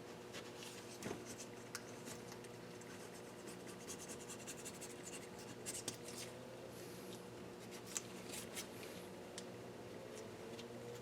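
Light hand scraping and rubbing on the Nissan KA24DE's aluminium cylinder head surface to clean it, with scattered small clicks and taps, over a steady low hum.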